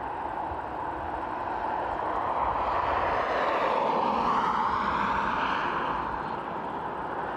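Boeing 777-200LR's GE90 turbofan jet engines passing close by. The engine rush swells to a peak about four seconds in, with a shifting, sweeping tone as it goes by, then eases off.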